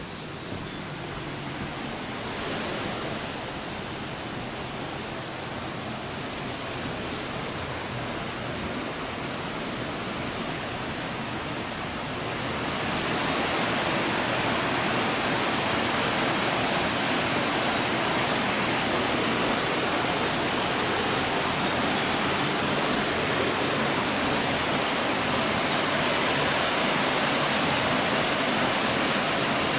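Steady rush of running water that grows louder about twelve seconds in, then holds.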